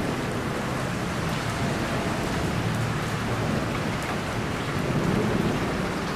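Steady heavy rain falling, with a low rolling rumble of thunder beneath it that swells slightly about five seconds in.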